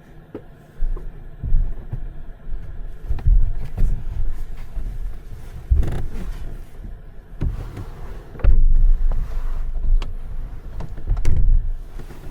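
Irregular low thumps, bumps and knocks of someone in bulky winter clothes climbing and shifting about inside a pickup truck's camper shell, the heaviest bumps near the middle and about two-thirds of the way in.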